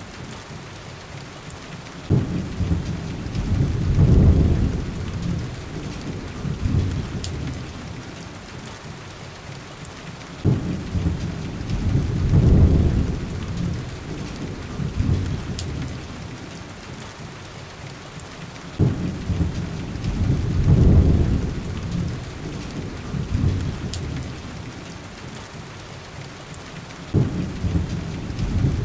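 Heavy rain on a window glass, steady throughout, with sparse faint pops from a crackling wood fire. Four deep rumbles start abruptly and swell, evenly spaced about eight seconds apart.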